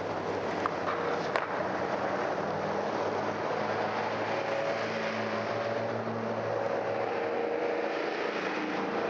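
Road traffic on a main road: vehicle engines and tyres making a steady rush with a low engine hum, as one or more vehicles go by. It is an old recording digitized from vinyl, with a sharp click about a second and a half in.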